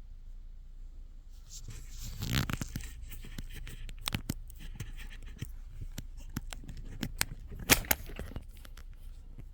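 Carving knife cutting white birch by hand: a string of short cuts and scrapes, with louder strokes about two seconds in and again near the end.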